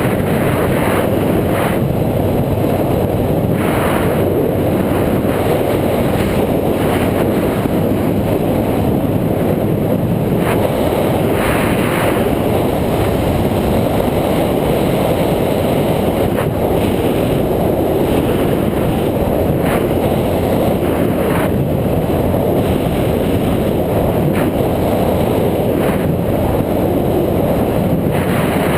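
Steady wind rushing over a moving action camera's microphone during a ride, with occasional light clicks or rattles.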